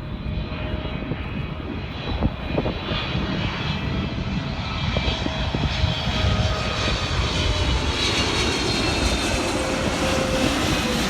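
Jet airliner on landing approach passing low overhead: a steady engine whine over a dense rumble, growing louder, with one tone falling slightly in pitch near the end.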